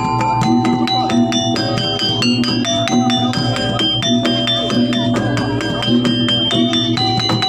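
Jaranan gamelan accompaniment: struck metallophones ring out a fast, even run of notes over a repeating lower pattern.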